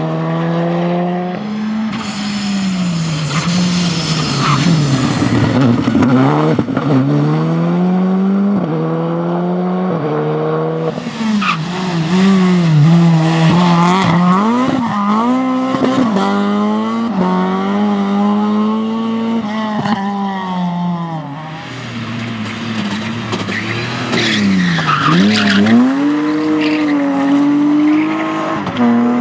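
Rally car engines at full push, the revs climbing and falling again and again through gear changes and lifts for corners, with tyres skidding and squealing on the stage.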